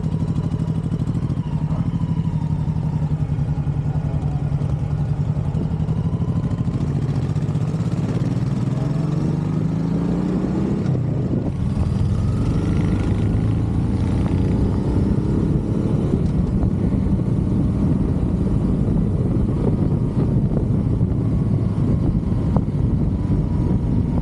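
Motorcycle engine running at a steady pace while riding, then speeding up with its pitch rising in two sweeps, about eight and twelve seconds in, before settling back to a steady run.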